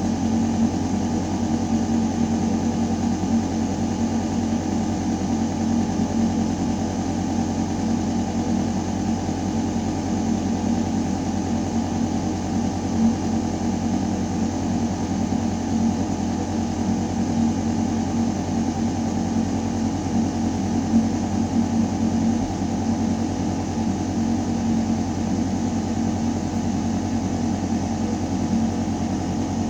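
Building ventilation system humming steadily: a constant low mechanical drone of fan and air moving through metal ductwork, with a steady tone in the low range and an even rush of air above it.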